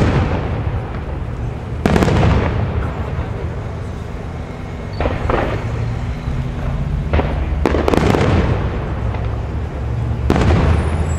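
Aerial firework shells bursting: about five sharp booms a second or more apart, each trailing off in a long echoing rumble over a steady low background rumble.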